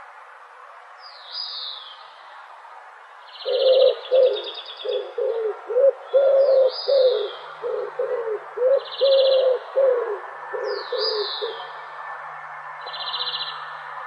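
Several birds calling. A high call that sweeps downward repeats every few seconds, trading off with short buzzy trills. From about three seconds in to about eleven seconds, a lower call repeats in a quick run of a dozen or so short notes, the loudest sound here.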